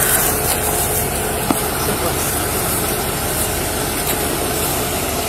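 A vehicle engine idling steadily, with one sharp click about a second and a half in.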